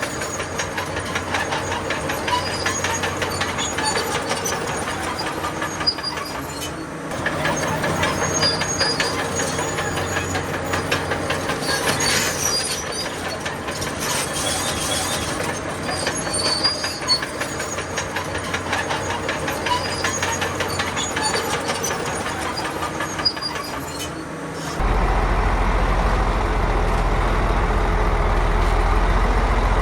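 Crawler bulldozer working, its engine running under the clanking and squealing of its steel tracks. About 25 s in, this gives way to a louder, deeper, steady drone.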